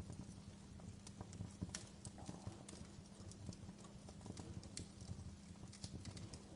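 Fireplace crackling: irregular sharp pops and snaps over a steady low rumble of burning wood.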